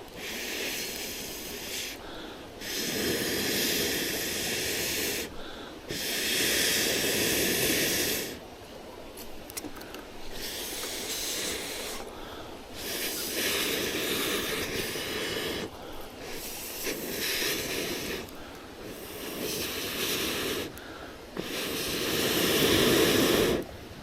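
Repeated long blowing breaths into a small kindling fire to get it burning: about seven hissing puffs, each two to three seconds long, with short pauses between.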